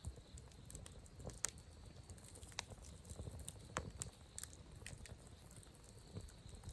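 Campfire crackling: irregular, sharp pops and snaps of burning wood, a few each second, faint.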